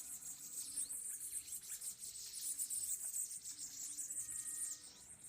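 Small birds chirping, many short high calls that fall in pitch, over a steady high trill of insects.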